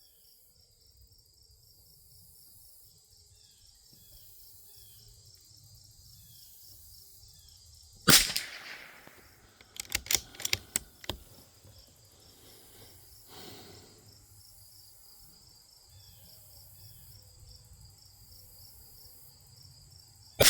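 Bergara B14R bolt-action .22 LR rimfire rifle firing a sighter shot about eight seconds in, a short sharp crack with a ringing tail, followed a couple of seconds later by a quick run of clicks as the bolt is worked; a second shot comes right at the end. Insects chirp steadily throughout.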